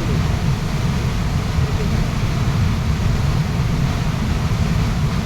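Waterfall rushing steadily, with most of its weight in a deep low rumble.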